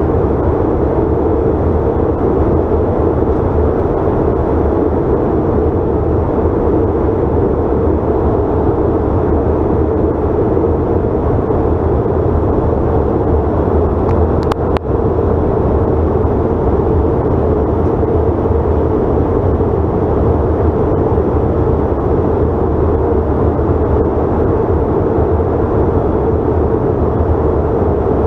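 Steady cabin noise of a Bombardier CRJ900 airliner in flight: the rush of air and the hum of its rear-mounted jet engines, unchanging, with one brief click about halfway.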